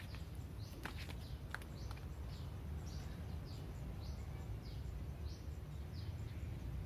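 A bird calling a short, high, falling note over and over, roughly one every half second, over a steady low rumble. A couple of sharp clicks come in the first two seconds.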